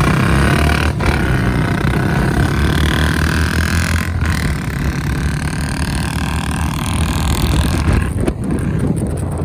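Two Royal Enfield Bullet motorcycles running loudly together, their single-cylinder engines firing through aftermarket silencers with a rapid, steady exhaust beat.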